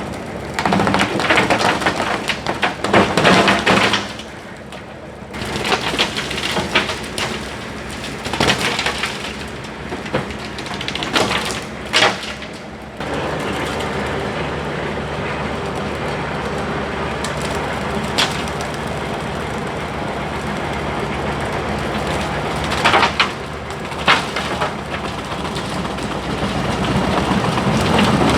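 John Deere 4052R compact diesel tractor running while its bush hog rotary cutter smashes through brush and saplings. Repeated cracks and snaps of breaking wood come over the machine noise, which settles to a steadier run about halfway through, with a few more snaps near the end.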